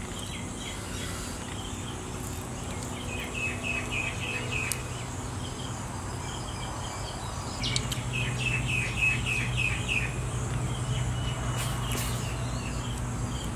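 A bird calling in two runs of quick repeated chirps, about seven or eight notes each, the second run a little louder, over a low steady hum.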